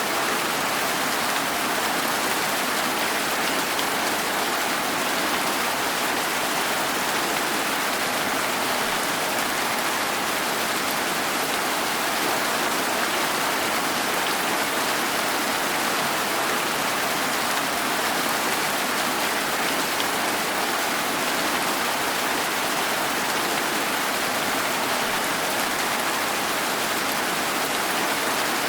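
Steady, even rain falling without a break, a dense hiss of many drops.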